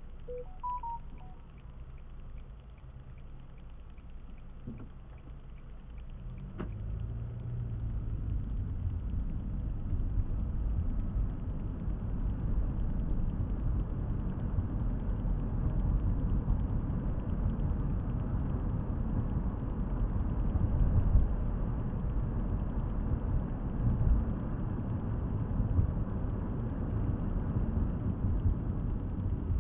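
A car driving, heard from inside the cabin: a steady low rumble of road and engine noise that grows louder about six seconds in and then holds. A few short faint tones sound near the start.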